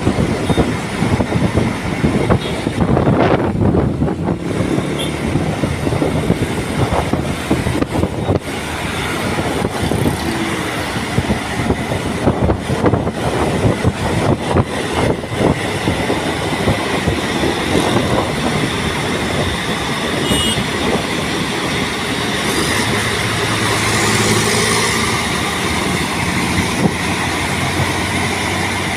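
Road vehicle noise from a bus on the move: continuous rattling and clattering over running engines, with a steady low engine hum setting in after about twenty seconds.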